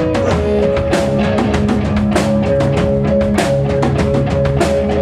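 Live rock band playing an instrumental passage: drum kit beating steadily with bass drum and snare, over guitars, bass and keyboards holding notes.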